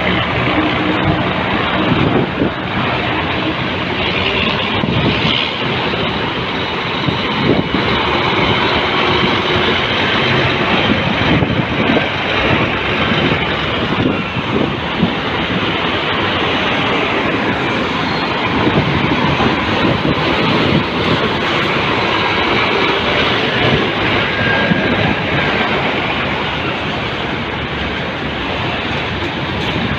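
Scania 6x4 hub-reduction truck on the move: a loud, steady drone of engine and drivetrain, with faint high whining tones that drift up and down.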